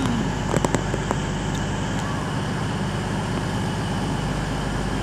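Cross Country Voyager diesel multiple units' underfloor Cummins diesel engines running at the platform, a steady low drone. A few light clicks come about half a second in.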